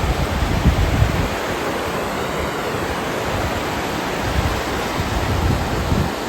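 River water rushing in a steady, noisy roar, with some low wind buffeting on the microphone.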